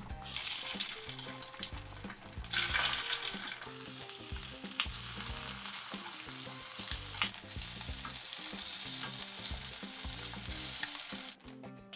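Egg-dipped kimbap slices sizzling as they pan-fry in oil in a nonstick frying pan, with light clicks of chopsticks and a wooden spatula against the pan as the slices are laid in and turned. The sizzling swells about two and a half seconds in and cuts off shortly before the end.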